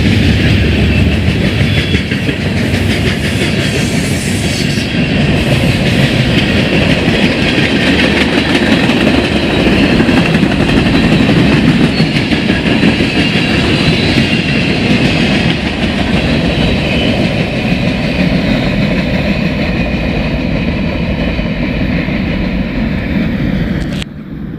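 A train passing close by, with the steady loud rumble of cars rolling on the rails. It cuts off suddenly near the end.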